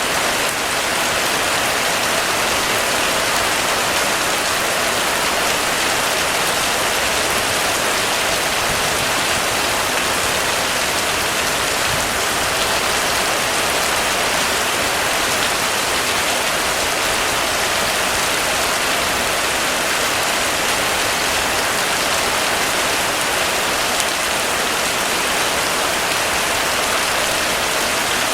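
Heavy, steady rain pouring down in an even hiss.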